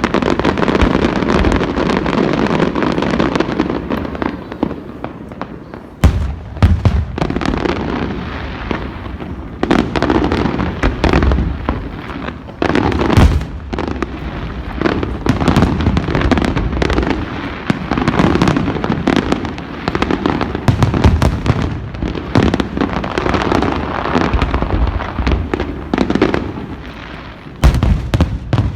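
Aerial fireworks bursting one after another in a dense, continuous barrage. Sharper, louder bangs come about six seconds in, around thirteen seconds, and again near the end.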